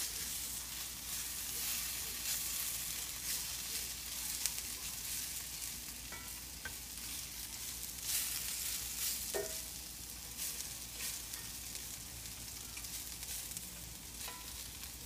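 Sliced burro bananas and onions sizzling in oil in a cast iron skillet, with the repeated scrape of a slotted spatula stirring and turning them. They are well into frying, browning to a crispy crust.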